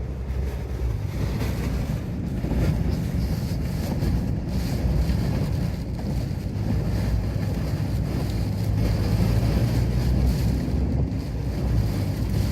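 Typhoon wind buffeting the microphone as a steady low rumble.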